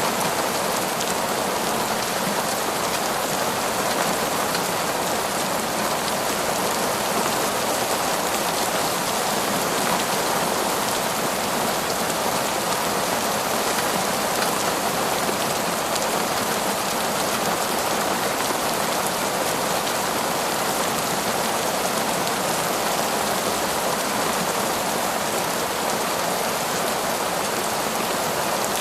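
Heavy torrential rain falling steadily in a forest, an even, unbroken hiss with no thunder claps.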